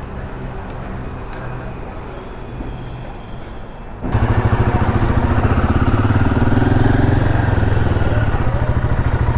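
Royal Enfield Himalayan single-cylinder motorcycle engines idling. About four seconds in, the sound jumps suddenly to a much louder, steady idle close to the microphone.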